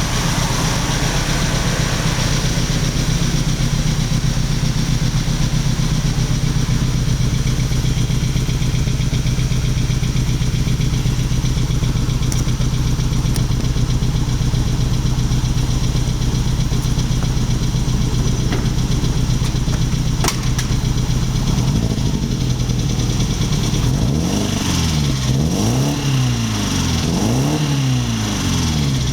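BMW 320Si's four-cylinder petrol engine idling steadily, then revved up and down a few times in quick succession near the end. The car has an engine fault that needs attention.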